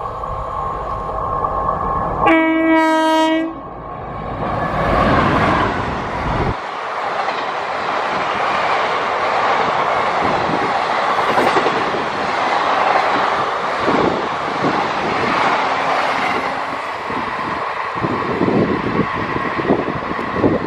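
Indian Railways electric locomotive sounds its horn once, a single held note of just over a second, as it runs through at about 110 km/h. Its coaches then rush past, with the wheels clacking over the rail joints through the second half.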